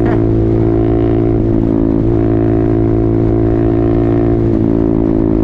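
Motorcycle engine running at a steady pitch while cruising, with low wind and road noise on the camera's microphone.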